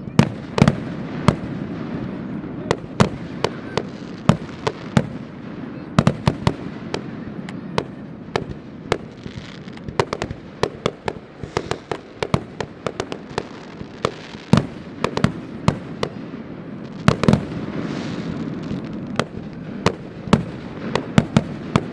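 Fireworks display going off in rapid, irregular succession: dozens of sharp bangs and crackles over a continuous rumble of booms echoing back and forth across the lake.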